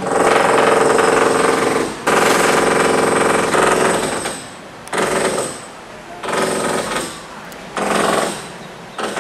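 Jackhammer pounding at a construction site, in runs of rapid blows: two long runs, then shorter runs of about a second with brief pauses between them.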